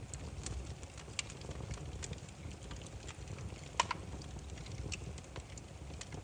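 Wood campfire crackling: irregular sharp pops and snaps over a low, steady rumble of the burning logs, with one louder pop a little past the middle.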